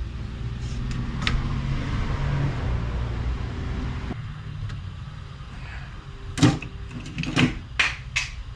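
A small metal lathe running with a steady hum while a press-fit bushing is turned to size, switched off abruptly about four seconds in. A few sharp clicks and knocks follow near the end.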